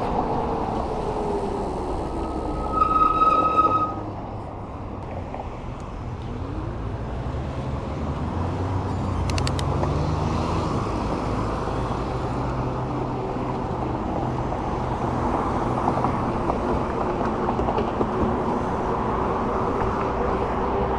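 Road traffic passing with steady wind and tyre noise while riding an e-bike along a busy road. A loud, steady high beep sounds for about a second around three seconds in.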